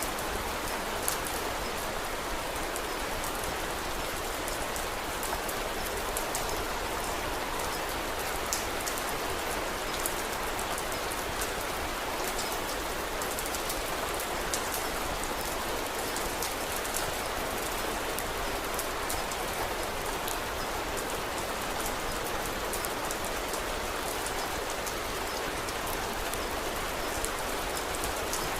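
Steady rain falling, an even patter of drops with scattered small sharp ticks throughout.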